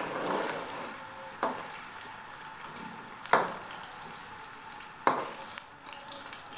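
Cubed potatoes sizzling in hot oil in a metal kadhai, with a slotted skimmer spoon stirring and clinking against the pan a few times, loudest a little over three seconds in.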